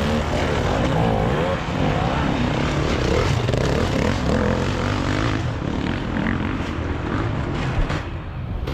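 Enduro motorcycle engine running under load, its revs rising and falling constantly over rough ground. It eases off near the end.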